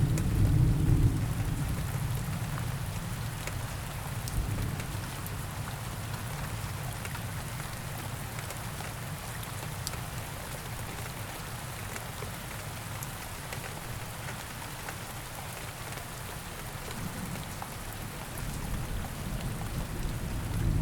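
Steady rain falling, with a low rumble of thunder fading away over the first couple of seconds and another building up near the end.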